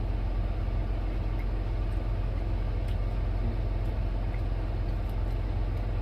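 A vehicle engine idling with a steady low rumble, with a few faint small ticks over it.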